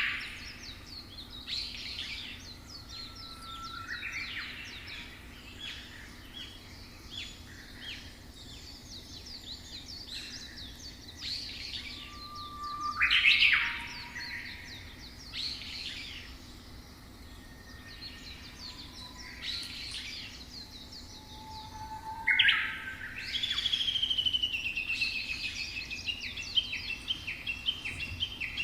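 Several birds chirping and singing, with short high calls throughout and a few loud rising whistled notes. Near the end comes a longer song phrase that falls in pitch and breaks into a rapid trill.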